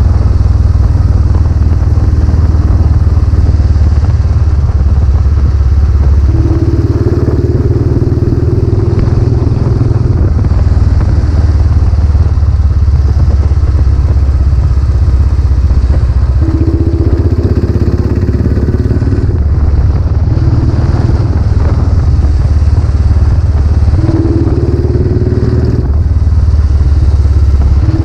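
Royal Enfield Classic 500's single-cylinder engine running steadily under way through a newly fitted aftermarket silencer. It has a deep, low exhaust note, and a higher tone rises over it for a few seconds at a time, about three times.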